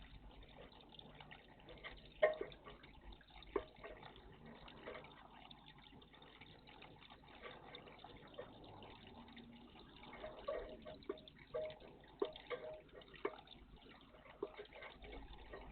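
Faint water splashing and dripping in a garden bird bath: scattered small splashes, with a louder one about two seconds in and a cluster of them between about ten and thirteen seconds.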